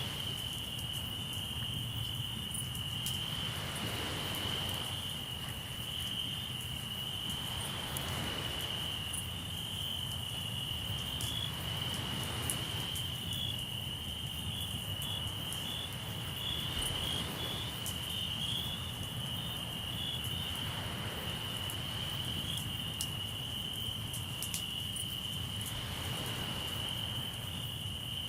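Crickets chirping in a steady high trill, over waves washing onto the shore every few seconds and the occasional small crackle of a campfire.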